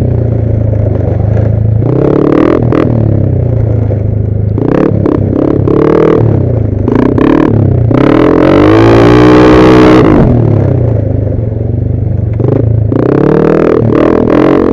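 Yamaha NMAX scooter's single-cylinder engine running under a rider, its pitch rising and falling with the throttle, with a louder rev about eight seconds in.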